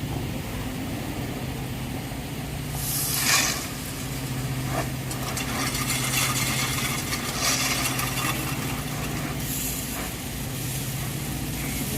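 Diesel engine of a JCB 3DX backhoe loader running steadily, with a short loud burst of noise about three seconds in and rougher noisy stretches later.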